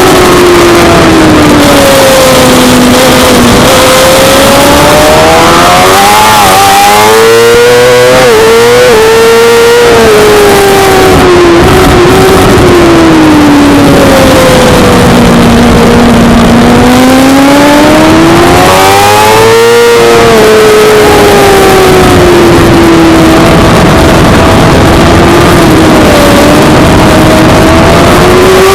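Suzuki GSX-R600 inline-four engine at racing revs, over a steady rush of noise. Its pitch climbs and falls several times: rising with stepped jumps about 6 to 9 seconds in as it pulls through the gears, then sinking under deceleration, and climbing again near the end.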